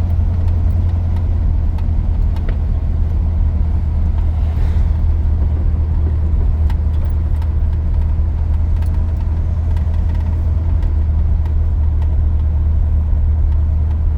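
Steady low engine and road drone heard from inside the cab of a 1983 GMC C2500 pickup while it is being driven.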